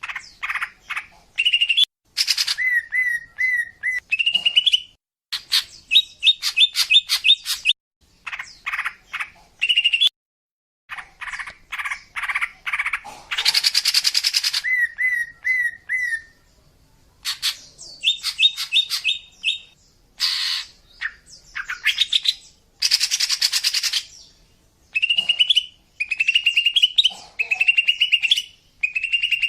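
Female greater green leafbird (cucak ijo) calling: phrases of quickly repeated chirping notes and short rapid trills, twice broken by a harsh, scratchy call. The call is used as a lure to draw in male birds.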